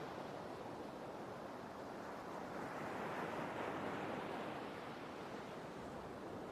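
Sea waves washing onto the shore in a steady rushing wash, swelling slightly midway as a wave breaks.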